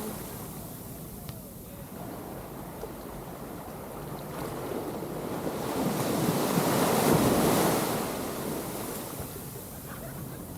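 Ocean waves breaking on the shore, a wave rushing in and swelling to its loudest about seven seconds in before falling back, with wind buffeting the microphone.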